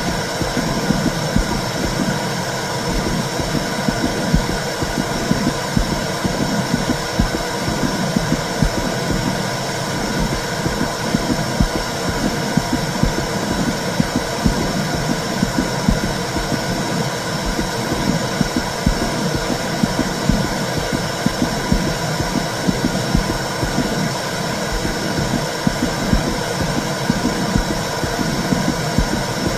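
Womb sound: a steady low rumbling whoosh with dense, uneven pulsing in the low end.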